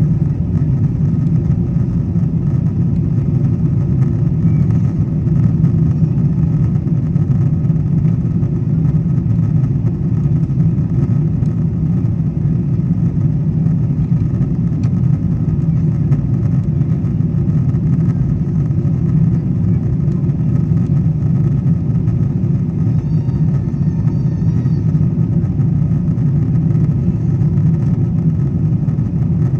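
Steady low roar of a Boeing 777-200ER's jet engines and rushing air, heard inside the economy cabin during the climb.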